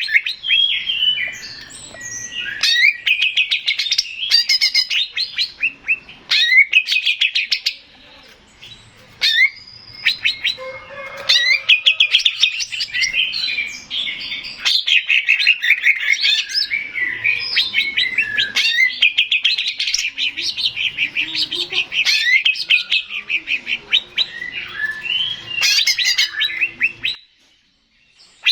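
Male greater green leafbird (cucak ijo) singing a long, fast, chattering run of rapid trills and sharp whistled notes. The song stops for about a second near the end, then starts again.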